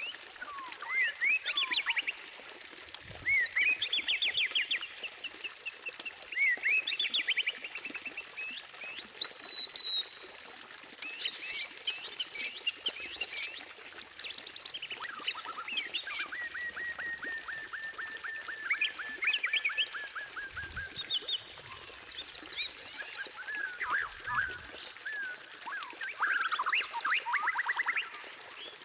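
White-rumped shama (murai batu) singing a varied song of clear whistles, fast trills and chattering phrases, broken by short pauses. Around the middle there is a long run of quick, evenly repeated notes.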